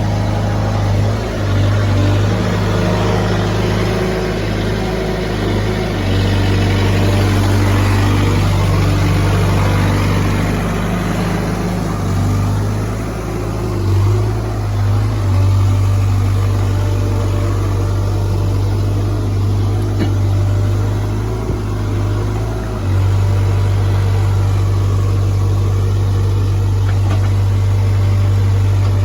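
Diesel engine of a piece of heavy earthmoving equipment running steadily, its note and load shifting several times as the machine works.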